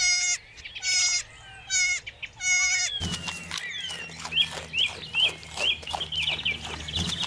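Goats bleating: four quavering bleats of about half a second each in the first three seconds. Then the sound changes to a steady low hum with many quick clicks and short high chirps.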